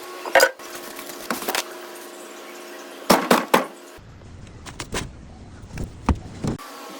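Tools clinking and knocking on metal in quick clusters of sharp strikes, over a steady hum.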